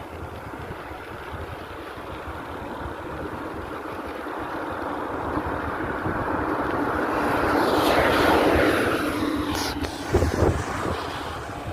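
A motor vehicle passing by: its engine noise builds to a peak about eight seconds in, then drops in pitch and fades, over wind noise on the microphone, with a few handling thumps near the end.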